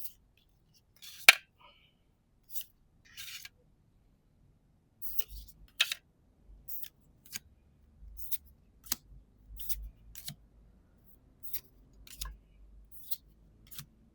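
Trading cards and booster-pack foil being handled: a series of short crisp clicks and brief rustles, roughly one or two a second, with one loud sharp snap about a second in.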